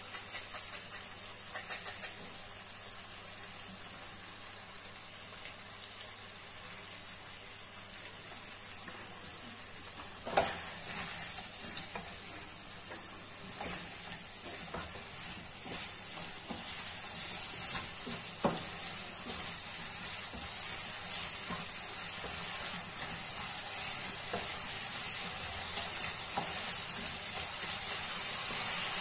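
Potato and tomato chunks sizzling in oil in a kadhai while a spatula stirs them, knocking and scraping against the pan now and then, with one sharp knock about ten seconds in. The sizzle grows louder toward the end.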